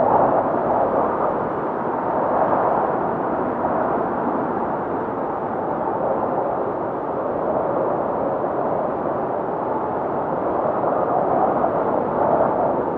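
Blizzard wind howling, a continuous rushing noise that swells and eases in slow gusts.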